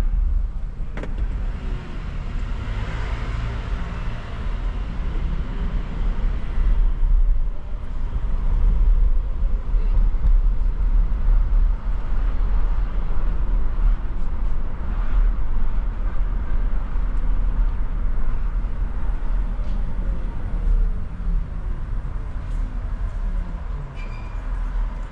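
Car driving through city streets: a steady low rumble of road and engine noise, with a falling whine about twenty seconds in.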